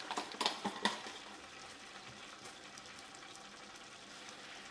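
Raw chicken pieces sizzling faintly in a pot on low heat, a steady soft hiss, with a few light knocks in the first second.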